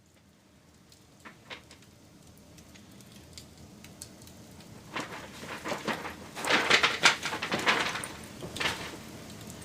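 Wood fire crackling and popping: a few scattered pops at first, then a dense burst of crackles about five seconds in that lasts some three seconds, settling back to a steady soft hiss.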